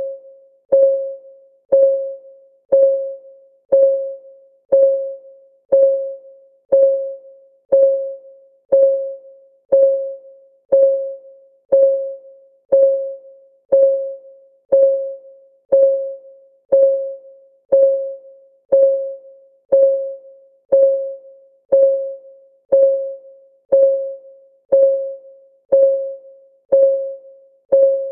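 Countdown timer's clock-ticking track: a short, pitched tick about once a second, each one ringing briefly and dying away, perfectly regular.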